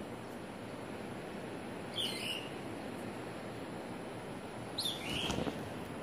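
A bird calls twice, about three seconds apart, each a short call that falls in pitch. A steady low rush sits under the calls.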